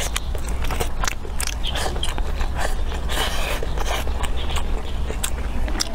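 A person biting and chewing pieces of chicken close to the microphone: irregular wet mouth clicks and smacks, busiest around the middle, over a steady low hum.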